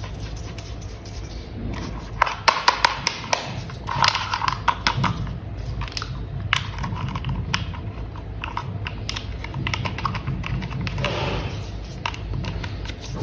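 Plastic toy parts being handled and snapped together: a run of sharp clicks and taps, thickest a couple of seconds in, with a brief swelling sound a little after the middle of the second half.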